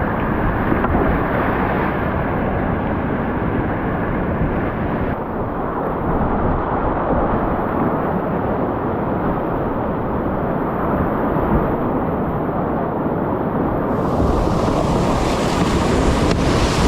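Rushing whitewater, a loud steady noise; its tone changes abruptly about five seconds in and again near the end.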